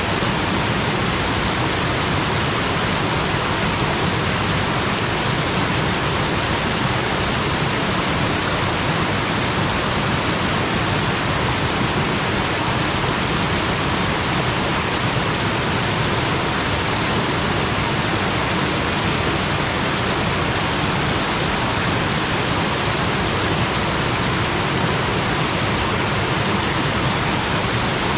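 Waterfall: water pouring between rocks in a steady, unbroken rush.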